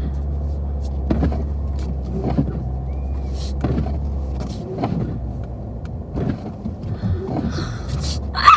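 Car engine running under load as the car tries to drive out of deep snow it is stuck in, a steady low drone that drops away briefly about halfway and then comes back, with a few faint knocks.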